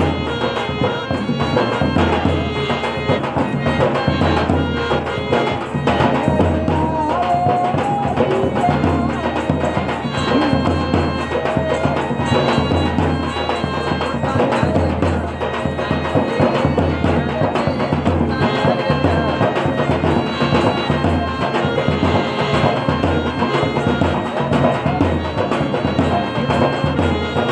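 Rajasthani folk music being played for a dance: a steady hand-drum beat under sustained, held melody tones.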